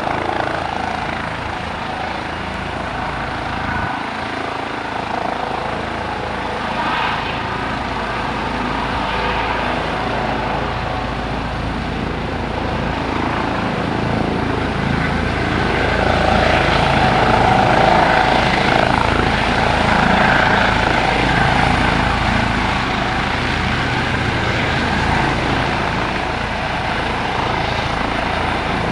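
Eurocopter EC135 helicopter running with a steady drone of rotor and turbine noise. It grows louder about halfway through, then eases back near the end.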